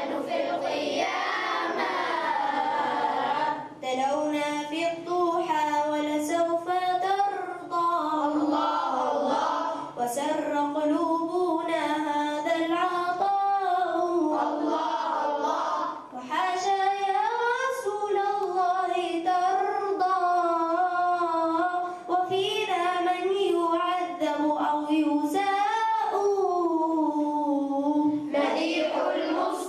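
A group of young voices singing an Arabic madih, a devotional praise song for the Prophet, as one melody line in phrases with short breaths between them.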